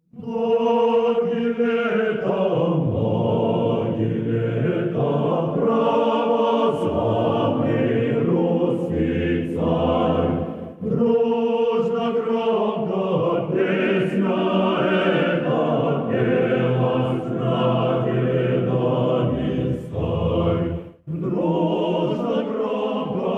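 Choir singing in long, sustained chords, with brief breaks about ten and twenty-one seconds in.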